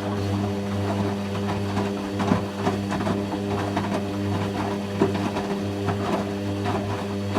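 Hoover Quattro washing machine running with a steady hum at an unchanging pitch, typical of the drain pump pumping out, with irregular clicks and rattles throughout.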